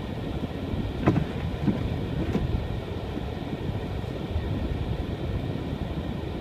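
A car driving on a snow-covered road: a steady low rumble of engine and tyres, with two brief knocks, about a second in and again a little over a second later.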